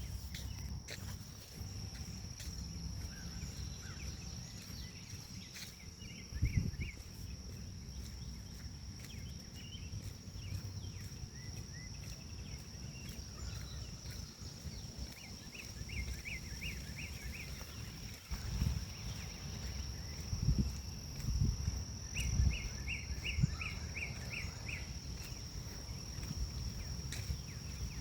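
Forest ambience: a steady high-pitched drone of grass insects, with a bird giving quick series of short repeated chirps twice, over a low rumble of wind on the microphone and a few thumps.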